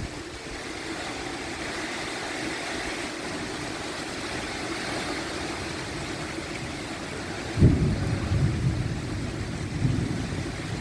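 Steady outdoor hiss, then, from about seven and a half seconds in, irregular low rumbling gusts of wind buffeting the microphone.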